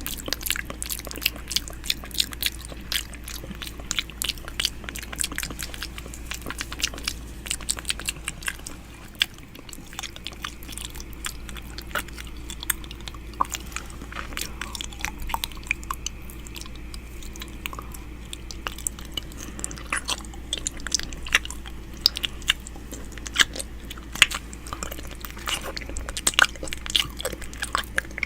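ASMR 'ear eating' mouth sounds made right against a microphone: wet smacking and clicking of lips and tongue in quick, irregular clicks, some much louder than others, over a steady low hum.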